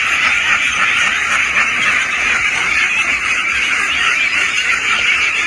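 A large flock of domestic ducks quacking all together, a dense, steady din with no single call standing out.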